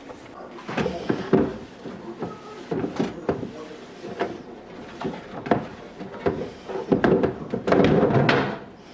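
Plastic storage containers and refrigerator drawers being handled and put away: a string of knocks and clatters, with a longer rustling burst near the end.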